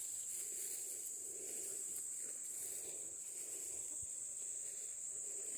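Insects trilling steadily in the background, a continuous high-pitched buzz.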